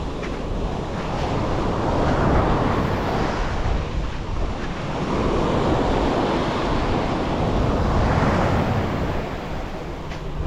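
Sea waves breaking and washing up the beach in slow swells, with wind buffeting the microphone.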